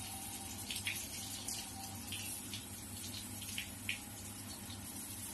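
Water raining down on low-voltage landscape light fixtures in a waterproofing test: a steady hiss of falling water with scattered splashes of drops.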